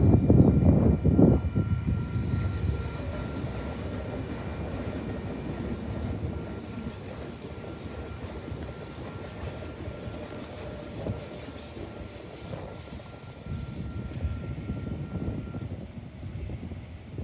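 Train running past and fading away: loud rumble in the first second or so, dying down, with a thin steady high whine that stops near the end.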